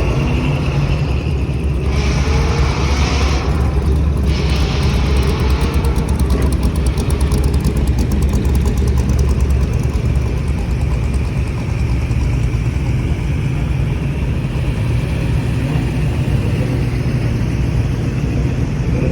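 Car engine running with a steady, deep rumble, with two brief surges of hiss about two and four seconds in.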